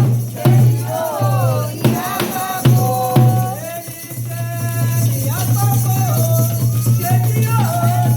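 Candomblé ritual music: voices singing a chant over drums and a shaker rattle, with several sharp drum strikes in the first three seconds.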